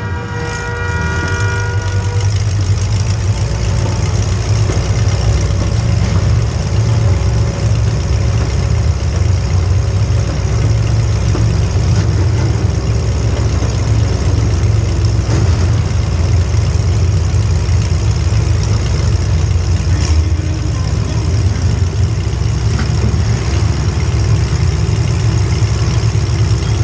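Small-block Chevy V8 in a demolition derby car idling steadily, deep and even.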